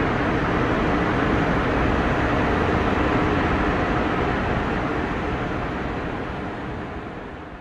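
Train running through an underground station: a loud, even rumble echoing off the platform walls, fading away over the last two seconds.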